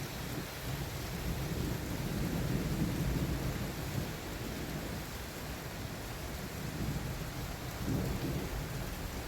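Heavy downpour hissing steadily, with low rolling thunder swelling up about a second in and rumbling again near the end.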